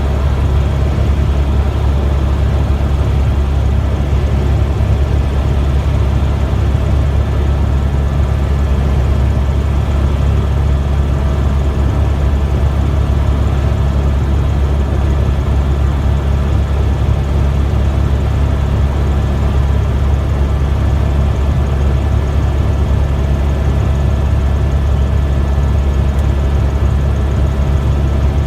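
Helicopter in steady flight, heard on board: a loud, unchanging drone of engine and rotors, deep and low with a few steady higher tones over it.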